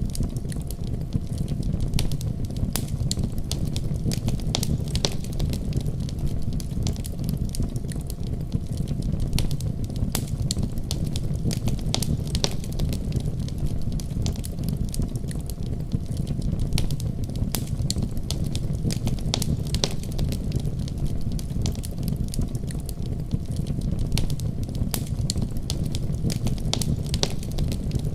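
Wood fire crackling in a fireplace, with scattered sharp pops, over a steady low rumble of a winter storm.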